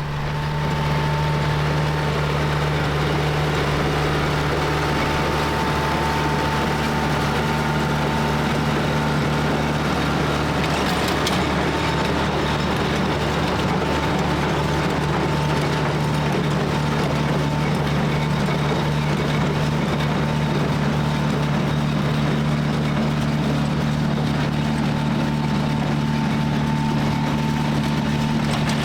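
Tractor engine running steadily with a constant thin whine over it, driving a John Deere 346 square hay baler in the field.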